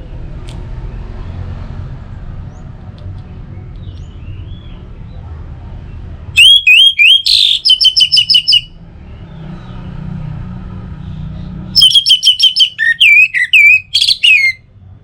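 Orange-headed thrush singing: two loud phrases of rapid, repeated whistled notes, one starting about six seconds in and one near twelve seconds, each lasting two to three seconds. A low steady rumble lies underneath between the phrases.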